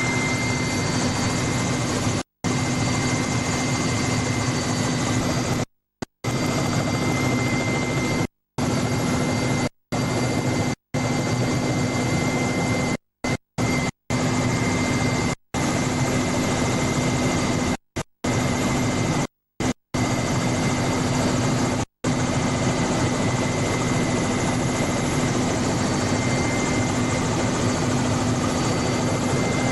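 Helicopter engine and rotor noise heard from on board, a steady loud drone with a constant low hum and a high whine. The sound cuts out to silence for a split second about a dozen times in the first two-thirds.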